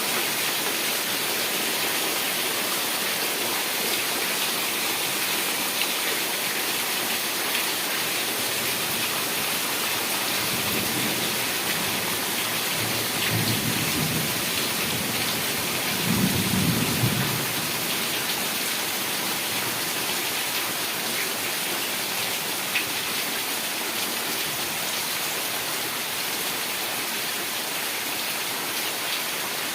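Heavy rain falling steadily, with a roll of thunder rumbling low through the middle, loudest just past halfway.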